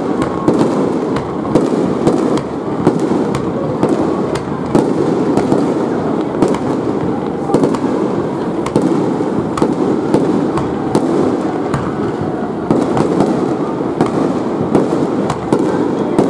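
Aerial firework shells bursting in a rapid, unbroken barrage: many overlapping bangs and cracks over a continuous rumble.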